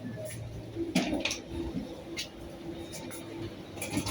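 Airliner cabin at the gate: a steady low hum from the air system, with scattered sharp clicks and knocks and a faint murmur of voices.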